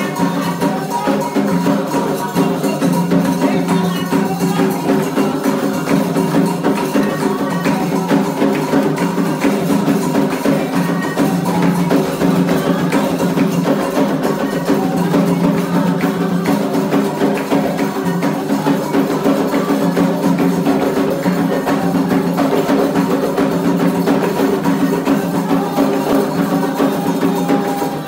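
Candomblé ceremonial percussion music for Xangô, a fast unbroken rhythm of drums with sharp wood-block-like strikes.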